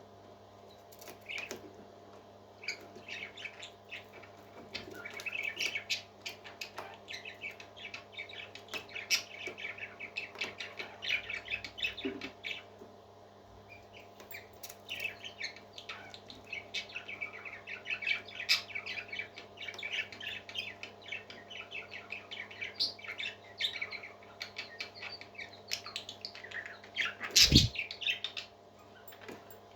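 Parrot chick chirping in long runs of rapid, high peeps over a steady low hum, with one sharp knock near the end.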